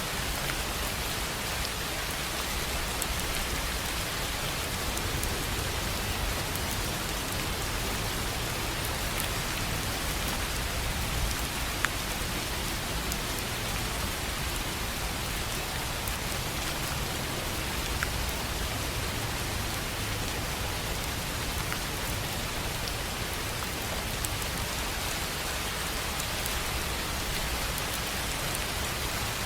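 Steady rain falling on a tin roof: an even hiss with scattered sharper drop ticks and a few louder single drops.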